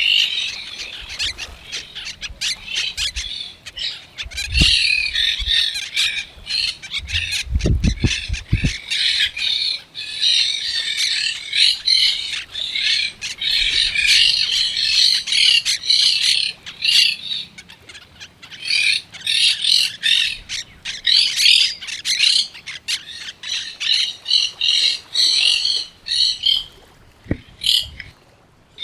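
A flock of parrots squawking and chattering almost without a break, many calls overlapping, with a few brief low thumps.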